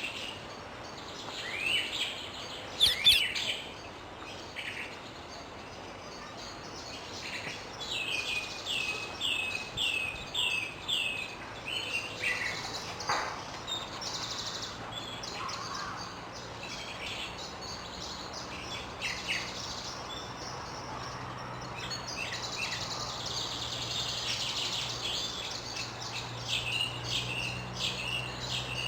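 Wild rose-ringed parakeets (Indian ringneck parakeets) calling with repeated short, sweeping calls. The loudest calls come about three seconds in, followed a few seconds later by a quick run of about five.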